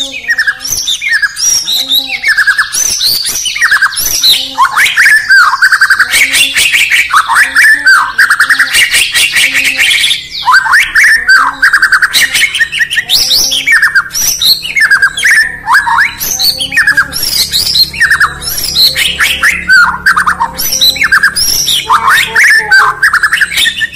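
White-rumped shama (murai batu) singing a loud, continuous, varied song of quick sweeping whistled notes mixed with sharp chattering clicks.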